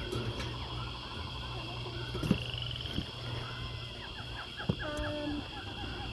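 Birds chirping in short trills and calls, with a few sharp knocks.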